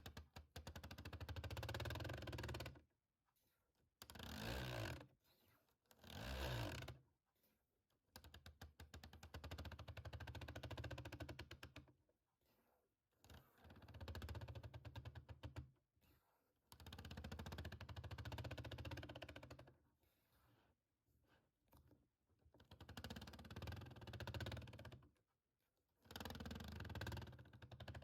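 Rapid ASMR tapping on a small object, in runs of very fast clicks lasting one to three seconds, with short pauses between them.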